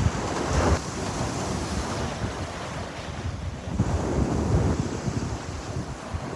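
Sea waves washing in surf, rising and falling in surges, with low rumbling wind buffeting the microphone.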